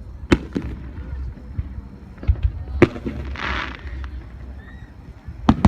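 Fireworks going off: a handful of sharp bangs spread across a few seconds, the loudest near the start, a little before the middle and near the end. A short hiss comes about three and a half seconds in, over a low rumble.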